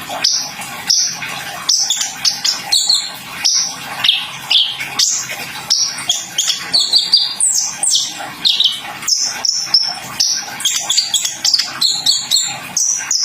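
Kolibri ninja, a small sunbird, singing a fast, unbroken string of high chirps, trills and down-slurred notes.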